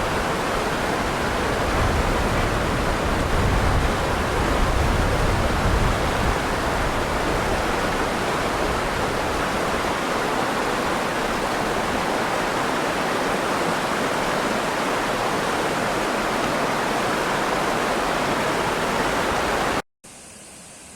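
Steady rushing water, a dense even roar. It cuts off suddenly near the end and gives way to a much quieter hiss.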